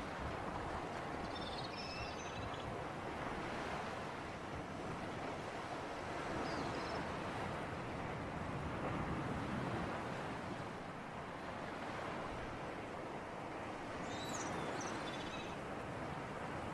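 Steady sea surf and breeze, the wash swelling and easing slowly, with faint high chirps about two seconds in, around seven seconds and again near the end.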